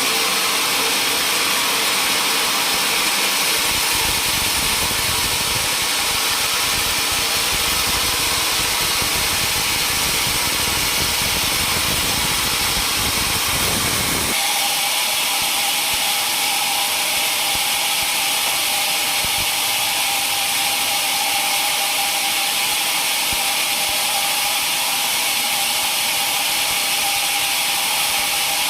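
Sawmill saw running steadily through timber with a loud hiss. About halfway through, the low rumble drops away and a steady whine comes up.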